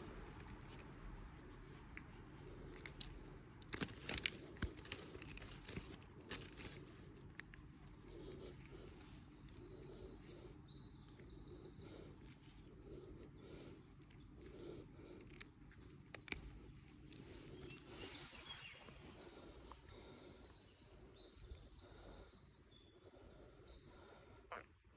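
Quiet outdoor ambience at a brook: a low, steady rush of running water with faint bird chirps. A quick cluster of sharp clicks and knocks comes about three to seven seconds in.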